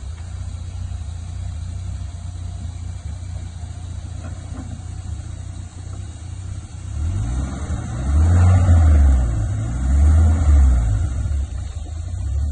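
Turbocharged 4x4's six-cylinder engine running steadily at low revs, then surging twice under throttle, rising and falling in pitch, before settling again near the end.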